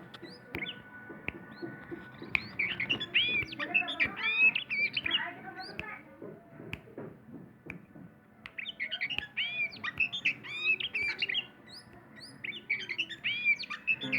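Oriental magpie-robin (Sumatran kacer) singing in three bursts of fast, looping whistled notes, with scattered faint clicks.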